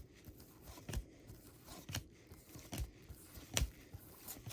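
Baseball trading cards being flipped through one by one in the hand, each card giving a short, crisp snap against the next, about once a second.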